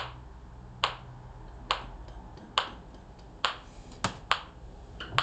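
A metronome clicking a steady beat, about one click every 0.85 seconds, set to the tempo for the tune.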